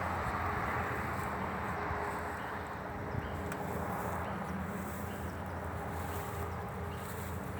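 Kawasaki Ninja 250's parallel-twin engine with an aftermarket sport exhaust, running at a steady pitch.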